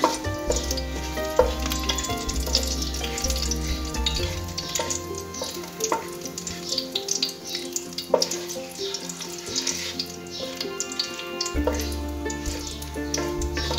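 Dried red chillies and bay leaves sizzling in hot mustard oil in a pan, stirred with a wooden spatula that knocks against the pan a few times. Background music with held notes plays underneath.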